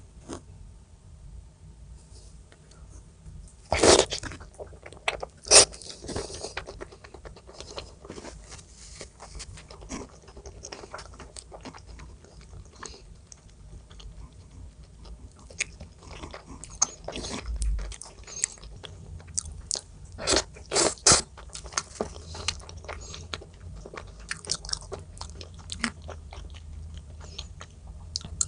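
A person biting and chewing food close to the microphone, with crunching and crackling bites. The loudest crunches come about four and five and a half seconds in, and again in a quick run about twenty seconds in.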